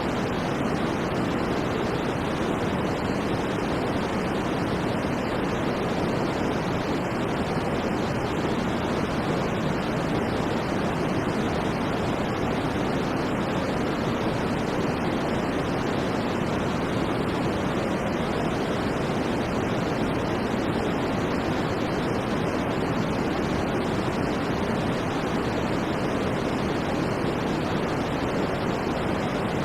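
Steady electronic white noise for sleep, an unbroken even rushing hiss that is fuller in the lower and middle range than at the top and never changes in level.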